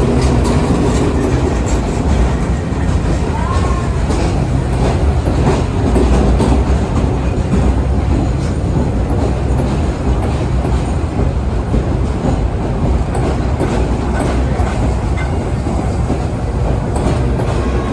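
Vintage 1930s R1-9 'Arnines' subway train running along the track, a steady loud rumble with wheels clicking over the rail joints.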